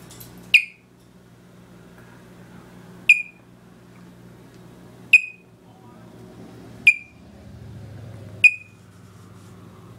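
Pet bird giving five short, sharp, high-pitched calls at irregular intervals of about two seconds, over a faint steady hum.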